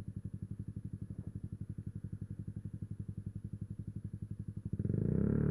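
Yamaha YZF-R125's 125 cc single-cylinder four-stroke engine running at low revs with an even pulse, then revving up and getting louder about five seconds in as the bike accelerates.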